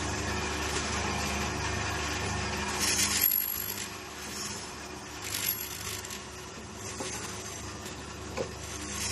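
Saw blade grinding machine running with a steady hum, its grinding wheel rasping against the blade's teeth in short bursts, the loudest about a third of the way in. The hum is quieter after that first burst.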